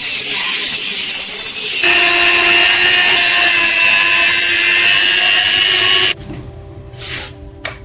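Power tool grinding or sanding metal: a steady motor whine over a hiss of abrasive work, which stops about six seconds in, followed by one brief burst.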